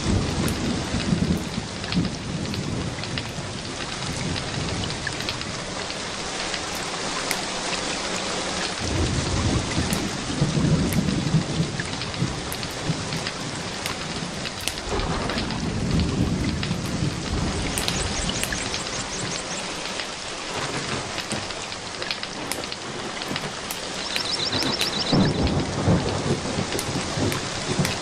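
Steady rain with low rolls of thunder that swell up several times.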